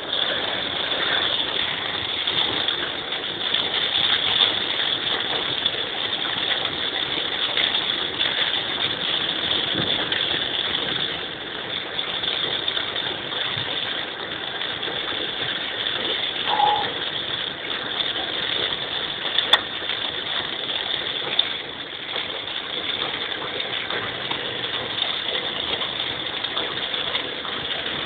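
Heavy rain and water from a flooded road washing over a moving car, heard from inside the cabin as a steady hiss.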